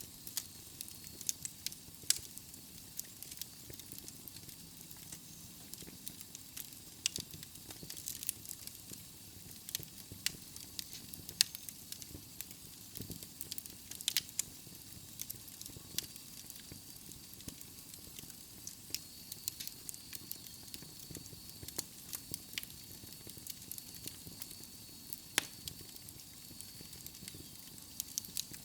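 Wood fire burning in a fireplace: a steady soft hiss with frequent sharp, irregular crackles and pops from the logs.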